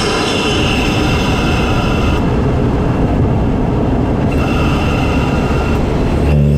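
MK7 Golf GTI's turbocharged 2.0-litre four-cylinder heard from inside the engine bay through a CTS open cold air intake while driving: a loud, rough intake rush with no clear engine note. The higher hiss fades for a couple of seconds in the middle, and a steady engine tone returns near the end.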